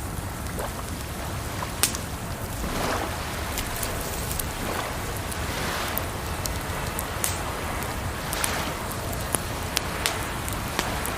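Wood fire crackling with scattered sharp pops, over a steady rush of running water that swells now and then.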